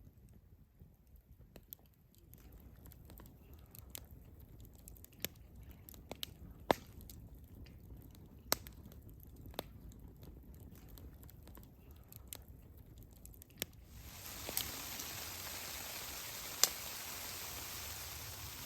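Scattered sharp clicks and pops over a quiet background. About fourteen seconds in, a steady frying sizzle starts, as of food going into a hot pan, with a few louder pops through it.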